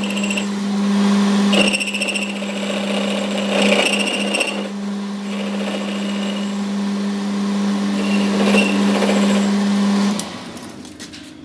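Power tool motor running at a steady speed with a constant hum, stopping abruptly about ten seconds in.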